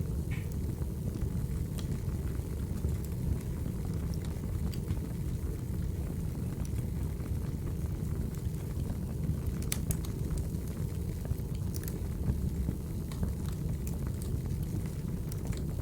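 Crackling wood fire: a steady low rumble of burning logs with scattered sharp crackles and pops.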